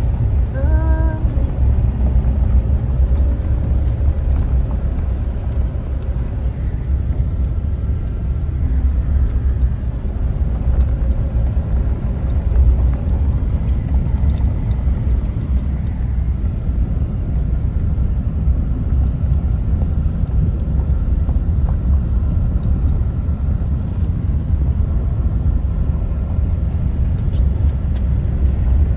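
A loud, steady low rumble, with a brief pitched sound about a second in and faint scattered ticks.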